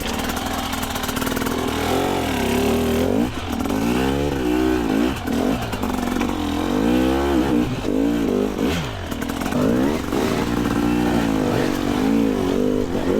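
Two-stroke dirt bike engine revving up and falling back again and again under short bursts of throttle, about once or twice a second.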